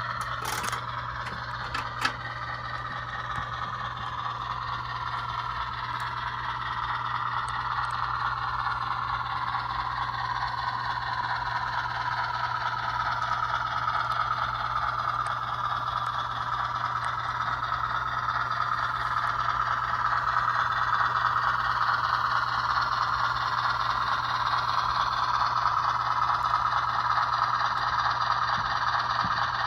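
HO scale model 44-ton diesel switcher running along the track, its motor and gears whirring with a rattling, scraping sound of wheels on rail that slowly shifts in pitch and grows a little louder toward the end. A couple of sharp clicks near the start.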